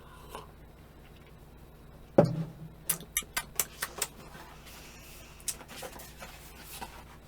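A single dull knock about two seconds in, followed by a string of short, sharp clicks and taps at irregular intervals.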